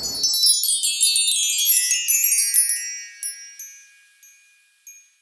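High, tinkling chimes cascading downward in pitch and fading away, with a few single tings near the end.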